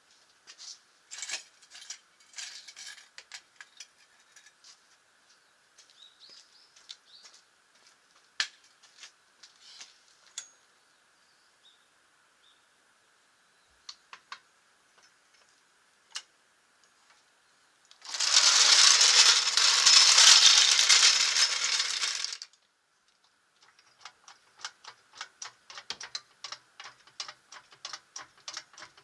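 Scattered metallic clicks and knocks. About eighteen seconds in, a Makita 18V cordless impact wrench hammers on a wheel nut for about four seconds, the loudest sound. Near the end comes a rapid run of ratchet clicks.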